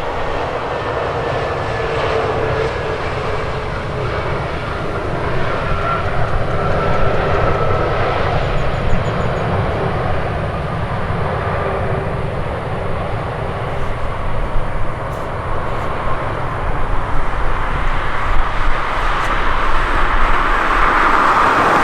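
Airliner jet engines: a steady loud rush with faint whining tones that slowly fall in pitch, growing louder near the end.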